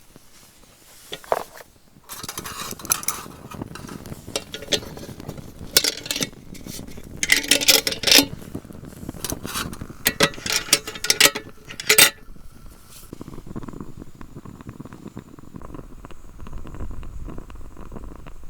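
Metal camp cookware clinking and clattering as it is handled, in irregular knocks and scrapes. After that comes a lower, steadier rustling rumble.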